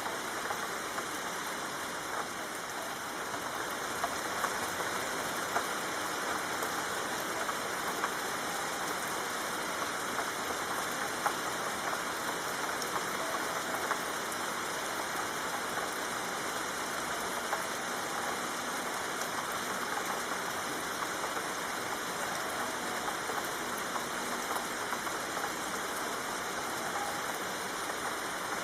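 Steady soft rain falling: an even hiss with scattered louder drop ticks.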